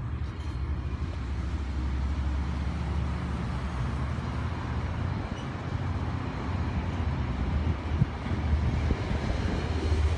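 Exo commuter train of bilevel coaches rolling over a rail bridge: a steady low rumble.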